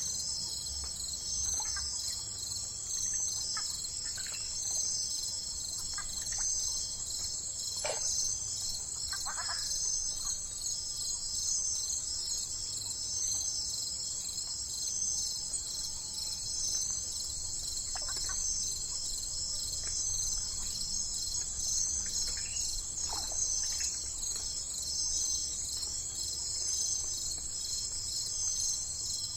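A steady chorus of crickets chirping in a fast, even pulse, with a few short bird chirps scattered through it.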